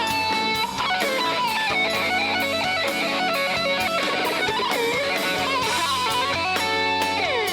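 Live rock band playing, led by a sustained electric guitar line with bent, wavering notes and a long falling slide near the end, over drums and cymbals.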